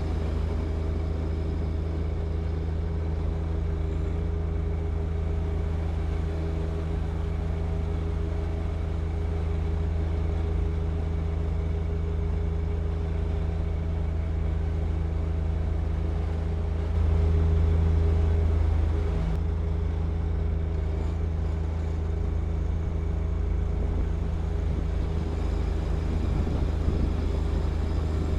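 John Deere 1025R compact tractor's three-cylinder diesel engine running steadily at working speed while clearing snow. It grows louder for about two seconds a little past the middle, then drops back suddenly.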